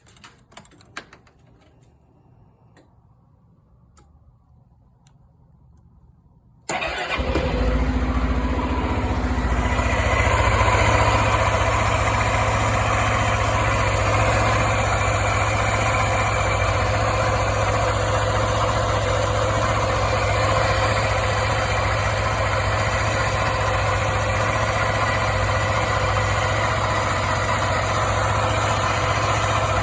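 Suzuki Burgman 400 scooter's single-cylinder engine starting suddenly about seven seconds in, after a few faint clicks, then idling steadily.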